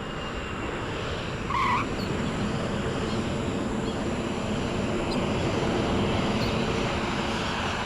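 Airliner engine noise as the plane comes in to land: a steady rushing drone that grows slightly louder, with a short higher tone about one and a half seconds in.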